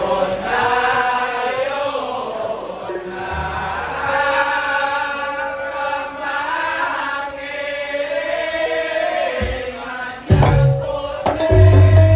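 A singer's slow, unaccompanied vocal line in Javanese gamelan style, with long wavering held notes. About ten seconds in the gamelan ensemble comes in with sharp drum strikes, ringing metallophone notes and a deep low tone.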